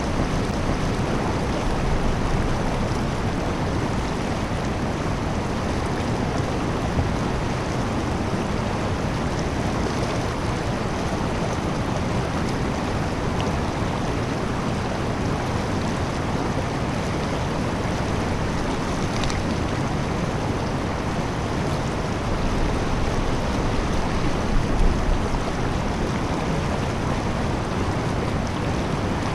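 Steady rush of fast-flowing creek water close by, an even noise with no break, with a brief low rumble about 25 seconds in.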